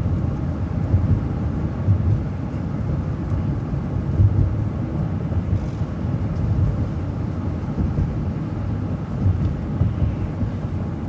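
City transit bus under way, a steady low rumble of engine and road noise heard from inside the bus.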